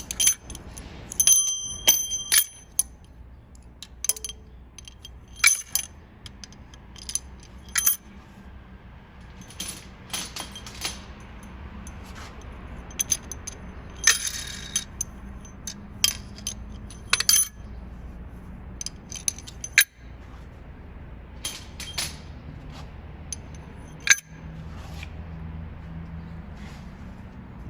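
Steel rocker arms clinking against metal as they are set in place on the cylinder head of a 2013 GMC Yukon engine: scattered sharp metallic clicks and taps, a few ringing briefly.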